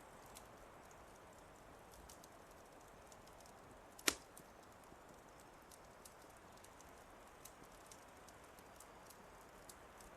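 Fireplace fire crackling faintly: scattered small pops over a low steady hiss, with one sharp, louder crack about four seconds in.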